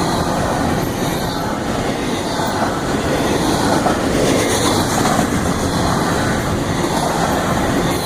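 Florida East Coast Railway train's cars rolling past at speed, wheels rumbling and clacking on the rails in a steady, loud rush.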